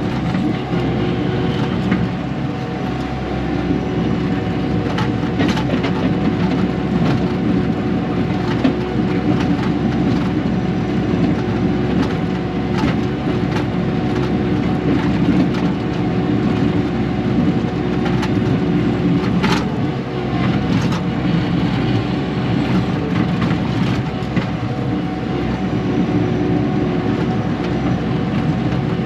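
Kubota KX080-4 excavator's diesel engine running steadily under working load, with scattered sharp knocks and clunks from rock being dug and moved.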